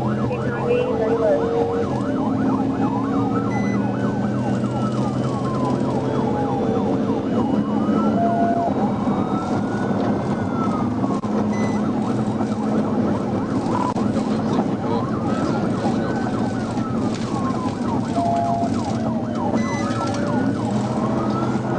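Police car siren wailing, its pitch slowly rising and falling about every six seconds, with a faster warbling tone mixed in, over the steady engine and road noise of the pursuing patrol car.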